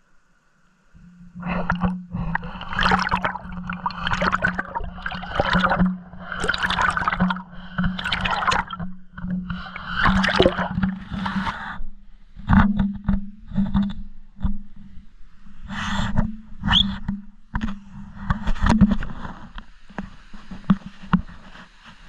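Muffled water sound from a camera submerged in a stream: gurgling, rushing surges with knocks and scrapes, over a steady low hum. The surges are dense for the first half, then give way to scattered knocks.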